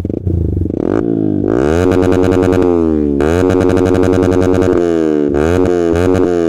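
Yamaha R15M's 155 cc single-cylinder engine revved through an aftermarket full-system exhaust with the bike standing still. The revs climb and hold, drop back, climb and hold again, then give a few quick blips that fall away near the end.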